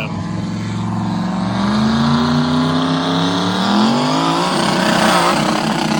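Turbocharged mud truck engine under hard acceleration, its revs rising steadily for about four seconds, then wavering and falling off near the end.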